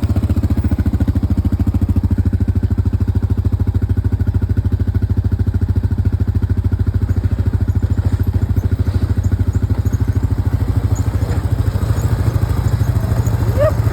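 ATV engine running steadily, with an even low pulse from its firing that holds unchanged throughout.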